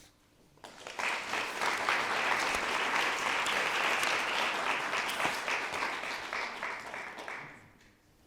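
Audience applauding for about seven seconds, starting just under a second in and fading out near the end.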